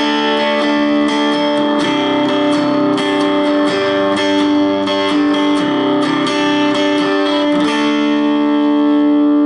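Electric guitar through the high-gain drive channel of a tube preamp pedal into a 1-watt Palmer amplifier, playing distorted, sustained chords that change every second or two; a bit more noisy, as drive sounds are.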